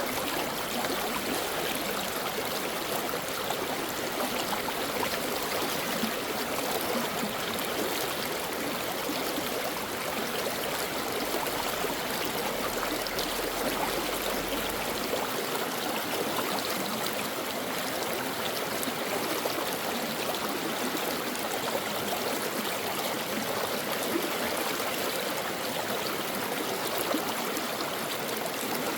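Brook water flowing, a steady even rush with no breaks.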